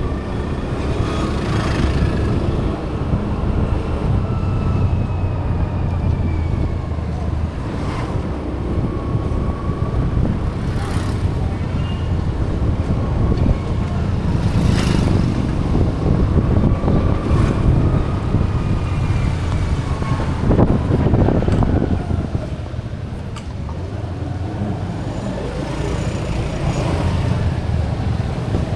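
Road traffic running steadily: engine and tyre rumble, with engine pitch sliding up and down at times. It drops a little in loudness about two-thirds of the way through.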